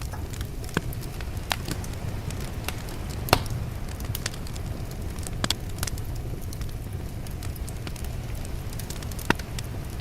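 Wood fire crackling, with scattered sharp pops, the loudest about a third of the way in and again near the end, over a steady low rumble of sea waves.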